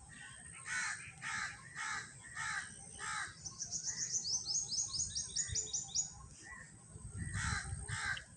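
Birds calling outdoors: a run of short, harsh calls at about two a second, then a fast high trill of quick descending notes for a couple of seconds, and two more calls near the end.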